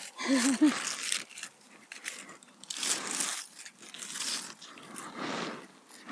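Crisp bites into a fresh golden apple, several crunchy bursts about a second apart, with a short voiced sound near the start.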